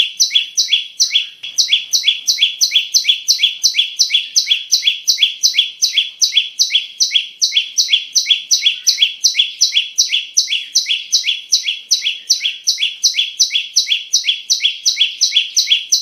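Prinia (prenjak) calling: a fast, steady, unbroken run of sharp, high chirping notes, about four to five a second.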